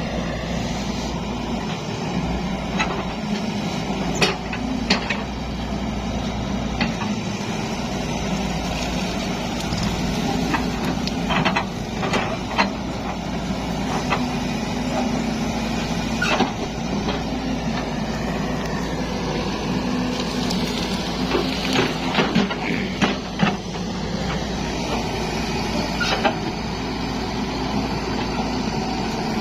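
Zoomlion excavator's diesel engine running steadily under working load, with scattered sharp knocks and cracks as it works, several coming in clusters.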